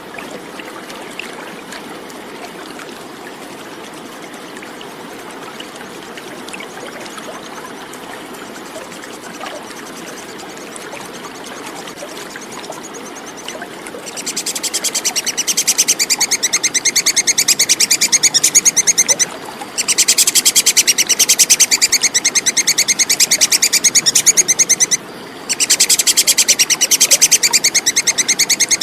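A steady rush of running water. About halfway through, a tupai kekes squirrel starts a fast, high, rattling chatter in long runs, breaking off briefly twice.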